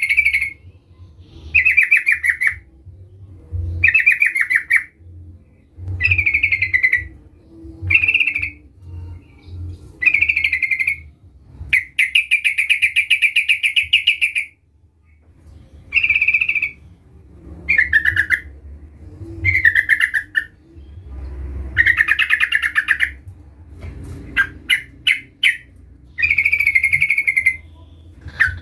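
Yellow-vented bulbul (trucukan) singing: loud, bubbly chattering phrases about a second long, repeated every couple of seconds, with a burst of short quick notes near the end.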